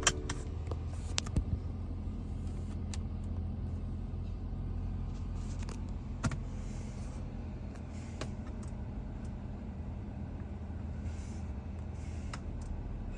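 BMW 530i's 2.0-litre turbocharged four-cylinder idling steadily, with a few light clicks about a second in and again near the middle.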